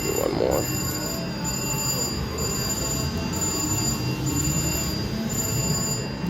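Electronic slot machine chimes, high tones sounding in short repeated pulses about once a second, over the steady din of a casino floor.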